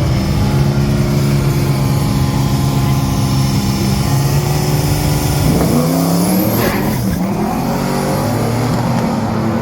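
A car engine running loud and steady, its pitch dipping and then climbing again about six seconds in.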